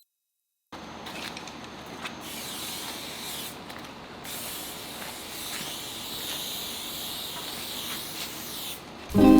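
Steady hiss of a high-pressure water spray from a self-service car wash pressure washer, starting suddenly just under a second in. Background ukulele music cuts in louder near the end.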